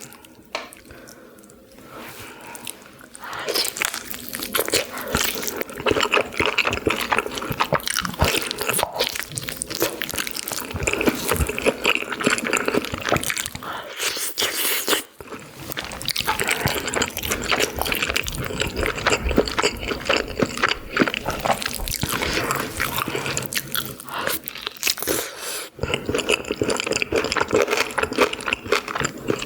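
Close-miked eating sounds: wet chewing and biting of food, dense and crackly, quieter for the first few seconds.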